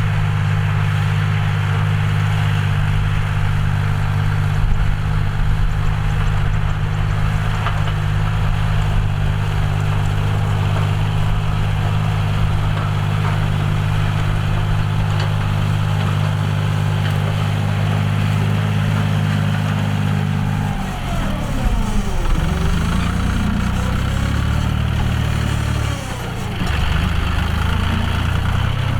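John Deere 5045D tractor's three-cylinder diesel engine running at a steady speed. About two-thirds of the way through, its pitch drops and wavers up and down for a few seconds, then settles again near the end.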